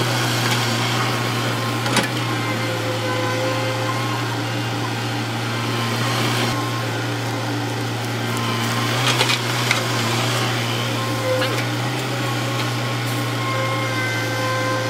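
Heavy earthmoving machine's diesel engine running steadily with a deep, even hum, and a few sharp knocks and clanks of metal or rock now and then.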